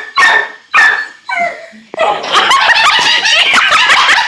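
A dog barking: three short, sharp barks in the first two seconds, then from about two seconds in a rapid, unbroken run of high yips and barks.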